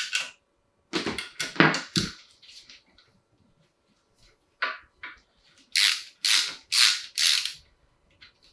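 Metal tools or engine parts clattering as they are handled. A cluster of knocks comes about a second in, then four sharp clinks about half a second apart near the end.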